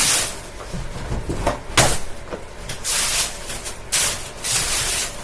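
A plastic grocery bag flapping and rattling against the spinning blades of a box fan, in loud irregular bursts of rustling noise over the fan's low hum.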